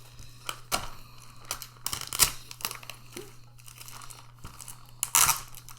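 Plastic packaging of a microwave meal being handled and its label pulled off: irregular crinkling and tearing crackles, with the sharpest ones about two seconds in and again near the end.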